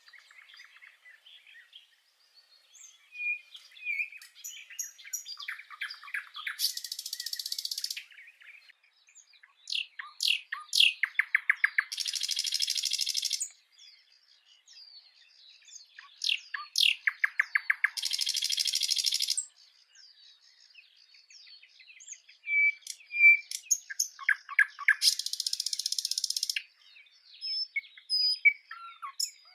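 Bird song: a bird repeats a phrase of quick clicking notes leading into a harsh buzzy trill about every six seconds, with short chirps and whistles between the phrases.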